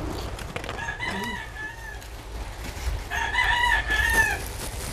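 A bird calling twice: two long, held, pitched calls of about a second each, the second a little longer and louder.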